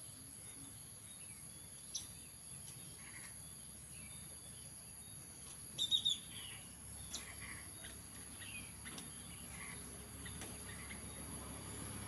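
Small birds chirping in short, scattered calls, the loudest cluster about six seconds in, over a steady high-pitched insect drone.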